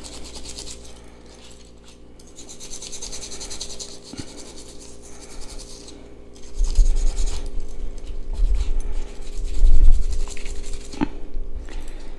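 A brass wire brush scrubbing the bare die-cast metal body of a toy car in quick back-and-forth strokes, clearing corrosion residue from the stripped metal. From about six and a half seconds in, low rumbling knocks from handling come in louder than the brushing.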